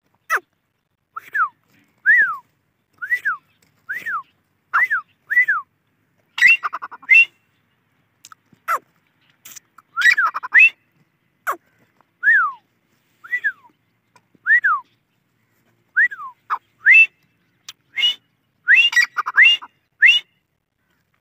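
Dakhni teetar (grey francolin) calling: a series of short, sharp whistled notes, each rising and then dropping, about one a second, breaking three times into quicker runs of higher, shriller notes.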